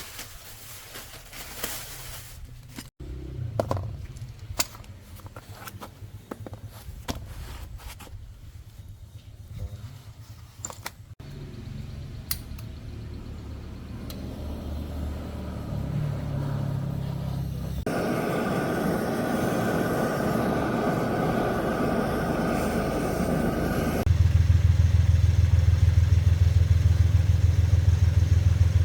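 Scattered metal clicks and knocks of workshop work. Then an engine is heard running, a low steady drone that grows louder in steps and is loudest over the last few seconds.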